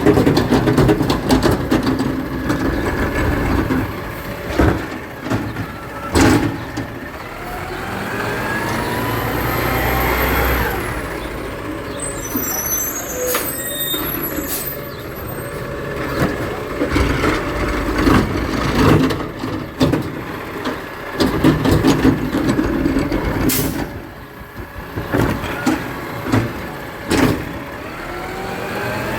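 Garbage truck working: its engine revs up with a rising pitch about seven seconds in and again near the end, among repeated clanks and knocks.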